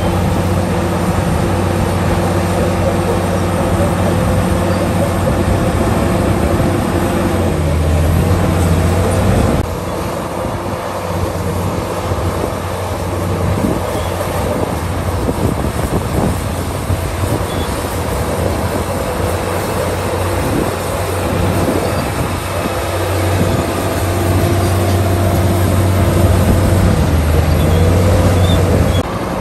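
Komatsu D65PX crawler bulldozer's diesel engine running steadily under load, with rough, irregular clatter from the machine at work. The sound changes abruptly about ten seconds in and again near the end.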